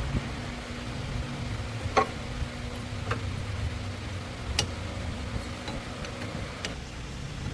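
A few sharp, isolated metallic clicks from tools and parts being handled during a hydraulic seal repair, over a steady low hum.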